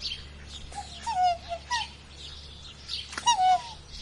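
Birds calling: short pitched calls that slide downward, about three of them, with a few sharp clicks, over a steady low hum.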